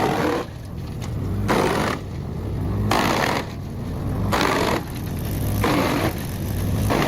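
A large wood chipper running, its engine humming under load, with a loud grinding surge about every second and a half as wood goes through.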